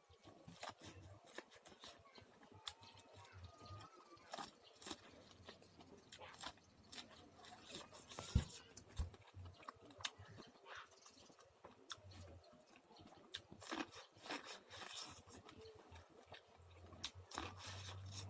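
A person chewing popcorn close to the microphone: irregular crunches and wet mouth clicks.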